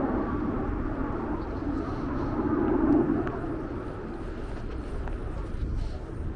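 Outdoor city street ambience with a low, steady rumble that swells about three seconds in and then eases off.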